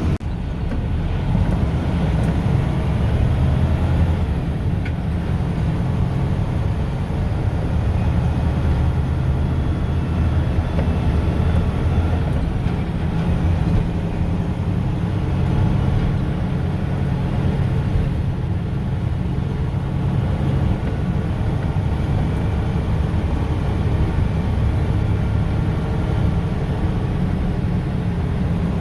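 Mack snowplow truck's diesel engine running steadily under way, a continuous low drone with road noise, heard from inside the cab.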